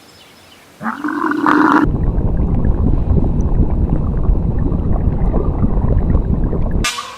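Animal calls: a short pitched call, then about five seconds of a low, rough rumbling growl that cuts off abruptly.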